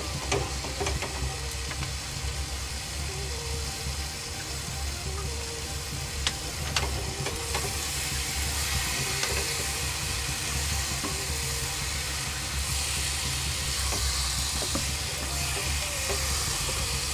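Bitter gourd and onion sabzi sizzling as it fries on a high flame in a nonstick kadai, with a wooden spatula stirring and scraping through it. The liquid from the melted sugar is being fried off, and the sizzle grows stronger about halfway through.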